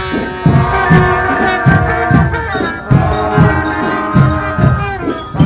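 Marching drum band playing: a steady drum beat of about two to three strokes a second under held melody notes.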